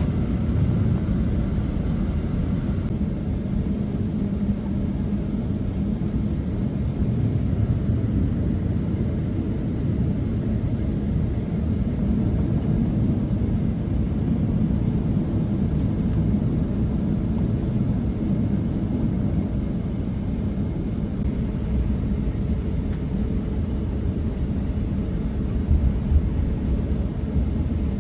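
Steady low rumble inside a jet airliner's cabin on the ground before take-off, the engines running at low thrust while the aircraft taxis, with a faint steady hum under the rumble.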